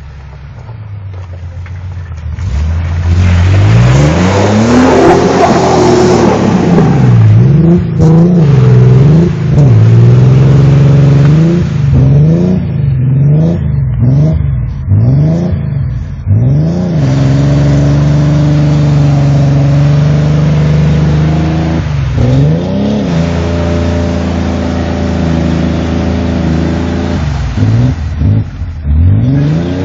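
A Toyota 4x4 truck's engine revving up and down again and again as it is driven through deep mud and water. There is a spell of heavy splashing and tyre churn a few seconds in. The engine is held at steady high revs for several seconds past the middle, then dips and revs again.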